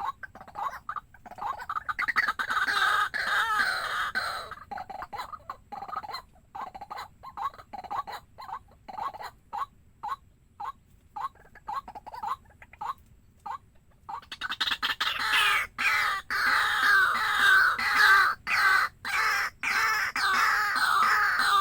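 Waterhen calls: a run of short repeated notes, breaking into loud, fast chattering choruses about two seconds in and again from about fourteen seconds on.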